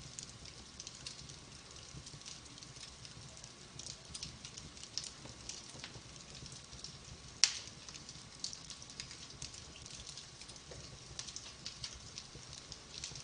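Wood fire in a fireplace crackling steadily with frequent small pops, and one loud sharp pop just past the middle.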